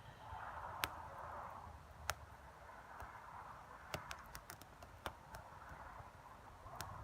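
Faint crackling of a Finnish candle fire, an upright log with vertical saw cuts burning from the inside, with sharp pops at irregular moments and a small cluster a few seconds in. The log is somewhat damp.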